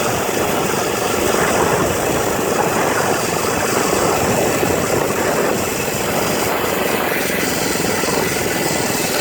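Monster Moto mini bike's small single-cylinder engine running under way at a steady throttle, a rapid buzzing pulse of firing strokes; it eases off slightly about six seconds in.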